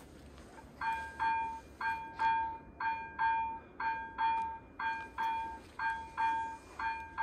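Level crossing's electronic warning bell starting up about a second in, ringing a repeated bell-like ding in uneven pairs, roughly two strikes a second: the crossing has activated for an approaching train.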